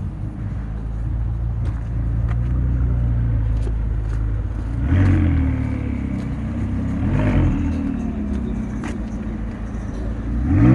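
McLaren 570GT's twin-turbo V8 exhaust running at a low idle, with two throttle blips about five and seven seconds in, the pitch rising and falling with each.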